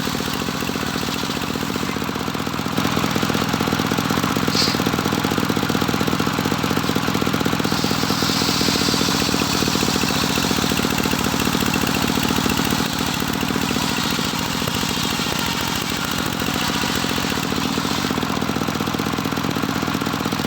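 Engine driving a homemade circular sawmill running steadily with a fast, even firing beat. It gets louder about three seconds in and drops back about thirteen seconds in.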